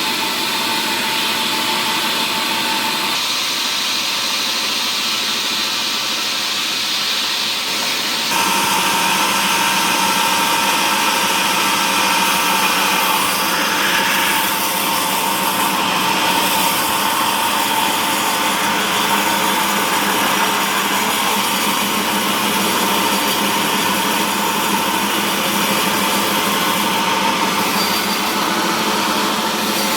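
Woodworking machinery running steadily while cutting mahogany, with a constant whine over the noise; it gets a little louder about eight seconds in.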